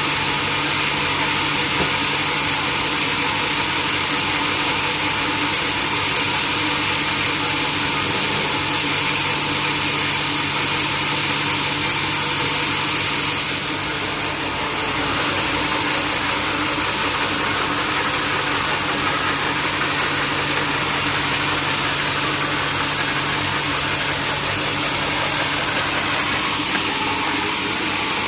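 Sawmill machinery running steadily: a constant engine hum under a strong, even hiss, dipping slightly about halfway through.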